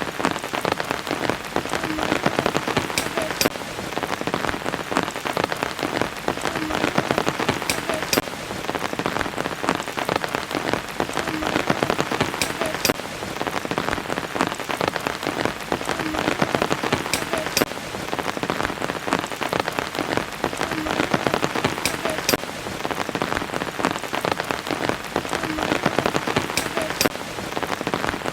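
Steady rain falling, with sharp ticks of individual drops over a dense hiss. The same pattern of drop ticks comes back every four to five seconds, as in a looped recording.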